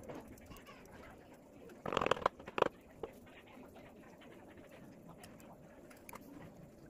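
A bird calling in short bursts: two calls about two seconds in and a fainter one just after, over a faint steady background.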